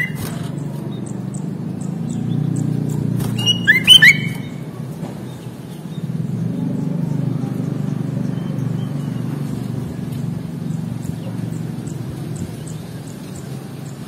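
Sooty-headed bulbul (kutilang) giving short, loud whistled notes that slide in pitch, once at the start and a quick cluster about four seconds in, over a steady low rumble.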